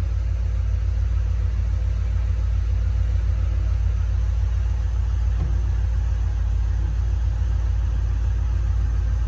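1990 Jeep Grand Wagoneer's carburetted AMC 360 V8 idling, a steady low rumble heard from inside the cabin.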